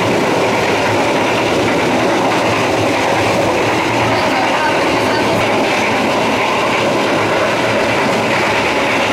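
KA Bengawan economy-class passenger train running at speed, heard from inside a coach: a steady, unbroken noise of wheels on rail.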